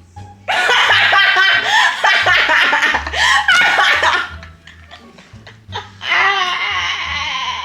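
Loud, hearty human laughter in two bouts: one starting about half a second in and lasting nearly four seconds, another starting about six seconds in. Background music with a pulsing bass line plays underneath.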